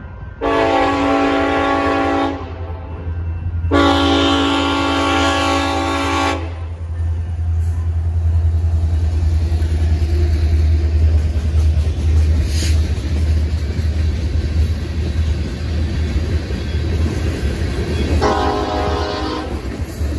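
Air horn of a Union Pacific freight train's lead SD70ACe locomotive sounding two long blasts for the crossing, then the deep rumble of the lead SD70ACe locomotives' EMD 710 two-stroke diesel engines passing close by, followed by freight cars rolling past. Another long horn blast sounds near the end.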